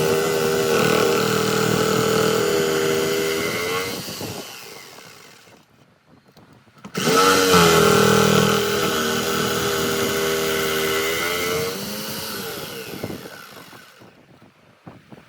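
A handheld power tool's motor running at full speed twice, each run ending as it winds down and stops after the trigger is let go.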